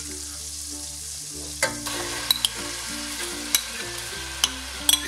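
Melted butter sizzling and bubbling in a stainless steel pot. Partway through, the sizzle grows louder, with scattered sharp pops and crackles, as diced raw chicken goes into the hot butter. Soft background music with held notes runs underneath.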